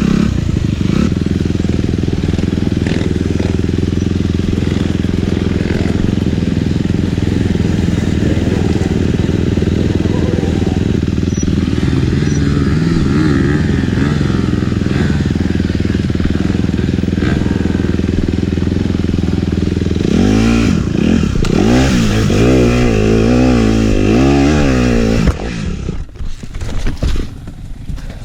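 Dirt bike engine running steadily under way, then revving up and down repeatedly for about five seconds. About three seconds before the end the sound drops off sharply and becomes broken.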